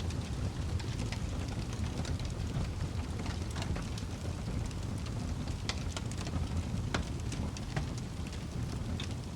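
Wood logs burning in a fireplace: frequent sharp crackles and pops, several a second, over a steady low rumble of the flames.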